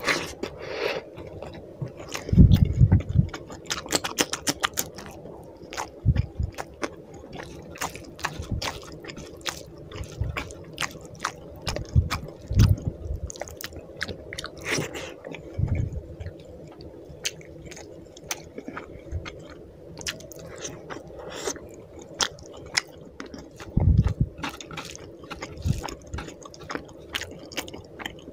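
Close-miked chewing and wet mouth clicks and smacks of someone eating rice and fish curry by hand, with the squish of fingers kneading rice in the gravy. A few dull low thumps stand out, the strongest about two and a half seconds in.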